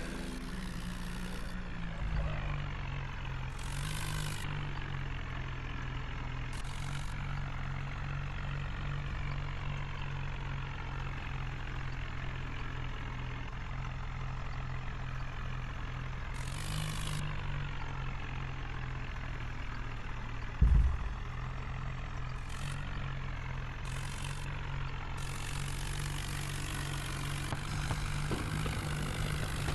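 Tractor diesel engine running steadily, its pitch shifting a couple of times as the throttle or load changes. A single loud thump comes about two-thirds of the way through.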